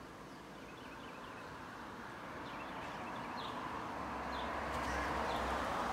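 Outdoor ambience: a small bird chirping again and again over a soft rushing noise that grows louder toward the end, with a low rumble coming in about four seconds in.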